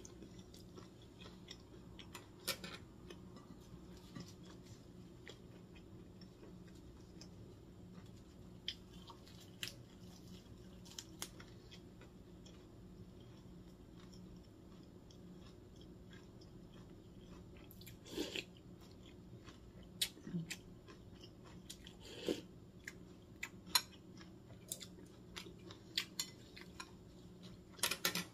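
A person chewing a mouthful of sliced boiled pork, with soft wet mouth clicks and smacks. The clicks are sparse at first and come more often in the last ten seconds, over a faint steady low hum.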